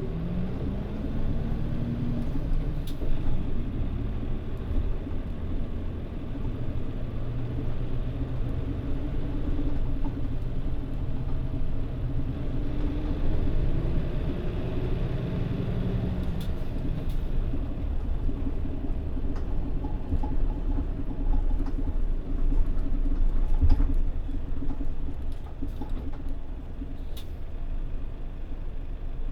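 Mitsubishi Fuso Aero Star city bus (PJ-MP35JM) running, heard from inside the cabin: the engine's pitch rises over the first couple of seconds as the bus pulls away, then it runs on steadily with another gentle rise in engine pitch about halfway through.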